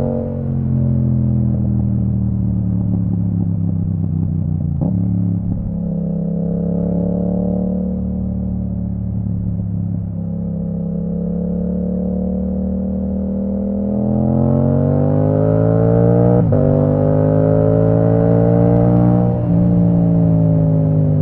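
2022 Yamaha MT-07 parallel-twin engine through an Akrapovic full titanium exhaust with the dB killer removed, under way: the revs sink and climb in turn, with sharp gear changes about five seconds in and again after a rising pull in the second half.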